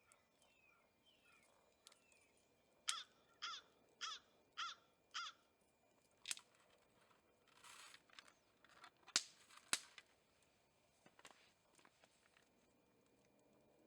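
A crow cawing five times in quick succession, about half a second apart. A few sharp cracks follow later.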